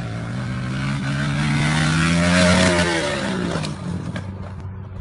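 Motorcycle engine running as it passes by, growing louder to about halfway, then fading with its pitch dropping.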